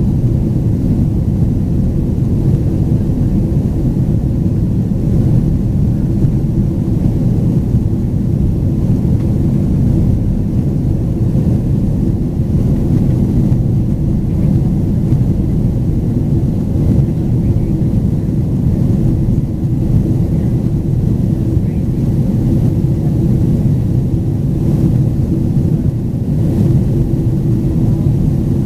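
Boeing 767-400ER's engines running, heard inside the passenger cabin as a steady low rumble with a constant hum.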